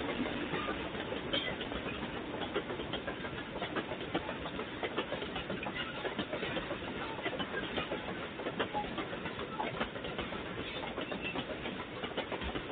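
Loaded freight wagons of a bauxite train rolling past on the rails: a steady rumble of wheels on track, dotted with many small clicks and knocks. Heard through a security camera's microphone, which sounds thin and cuts off the highs.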